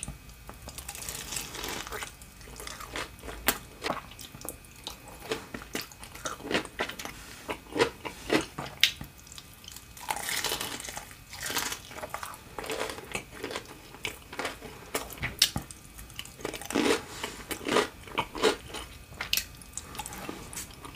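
Close-miked crunching and chewing of a deep-fried sushi roll: crisp bites and ongoing mastication with many sharp crackles from the fried coating.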